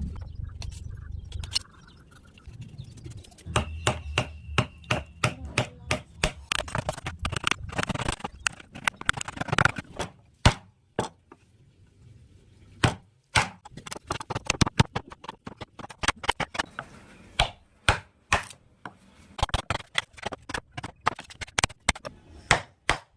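A wood-carving chisel being struck with a mallet: sharp, irregular taps on the wood in quick runs, broken by short pauses.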